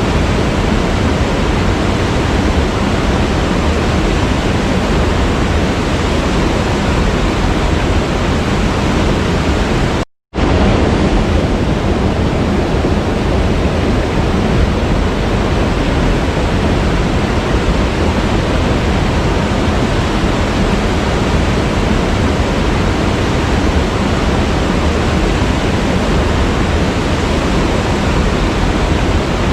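Waterfall rushing in a steady, dense roar of falling water. It cuts out completely for a split second about ten seconds in, then resumes unchanged.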